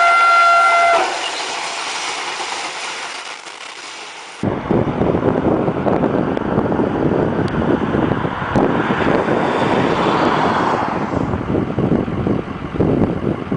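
A train horn sounding one steady chord that stops about a second in, followed by a fading hiss. About four and a half seconds in it cuts abruptly to the loud, continuous rushing rumble of a train locomotive ploughing through deep snow drifts.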